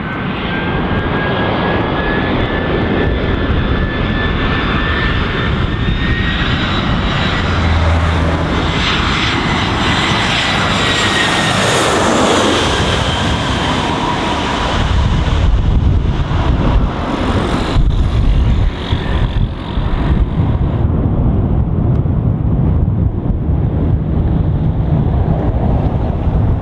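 Airbus A318's CFM56 turbofan engines as the jet flies low overhead on approach. The engine whine rises slowly in pitch as it nears, sweeps past overhead about halfway through, then falls away into a low rumble.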